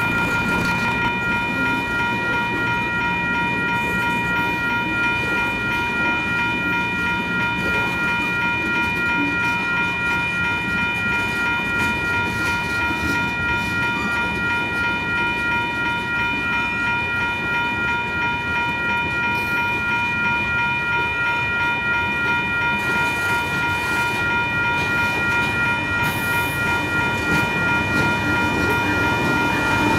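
Freight train cars rolling past on steel rails, with a steady high-pitched squeal of several tones held over the rumble throughout.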